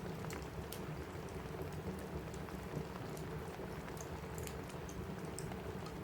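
Steady rain on a cabin roof mixed with a crackling wood fire: an even patter with sharp little pops and ticks scattered through it.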